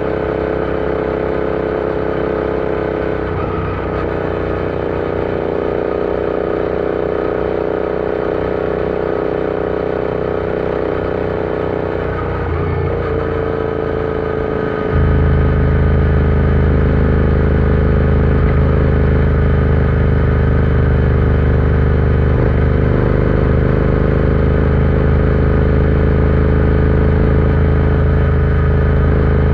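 Royal Enfield Interceptor 650 parallel-twin engine running steadily under way, its pitch holding nearly level with brief shifts about a third of the way in and just before halfway. About halfway through the sound jumps louder with a deep added rumble that stays to the end.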